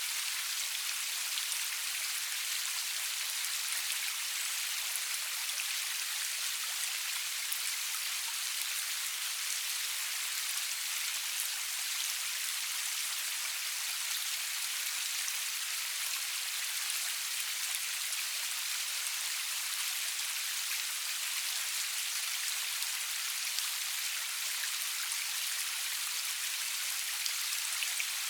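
Steady rain with no thunder: an even hiss of falling rain with many small drop ticks.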